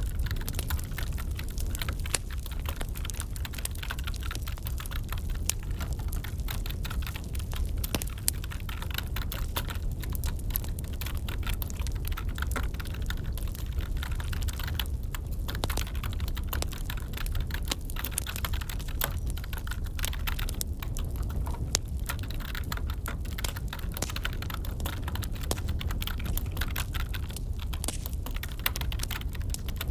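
Keyboard typing in a steady patter of clicks over a crackling wood fire, with a steady low rumble underneath.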